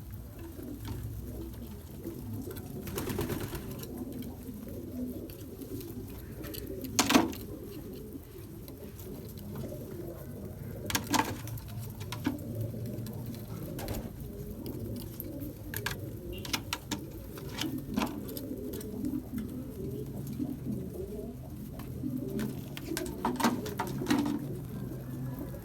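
Pigeons cooing continuously, with scattered sharp clicks and knocks; the loudest knock comes about seven seconds in.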